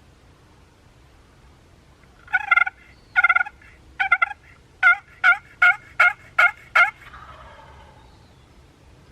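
A series of nine turkey yelps: three drawn-out notes, then six shorter notes coming faster, with a short echo fading after the last.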